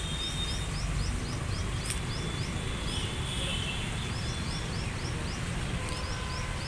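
A bird chirping repeatedly: short, high, rising notes about four a second, in three runs with short gaps between them, over a steady low rumble of outdoor background noise.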